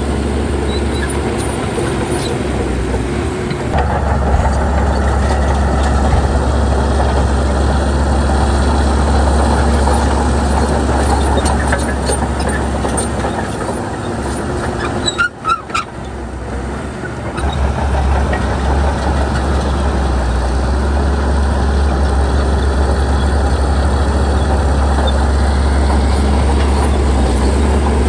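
Bulldozer's diesel engine running steadily under work, a deep constant drone with mechanical noise over it. About halfway through it dips briefly, with a few sharp clicks.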